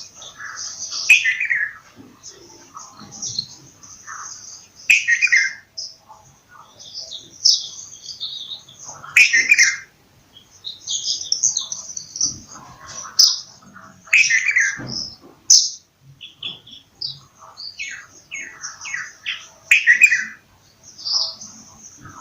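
Bulbuls calling: a busy run of short, high chirps, with a louder call falling in pitch about every four to five seconds.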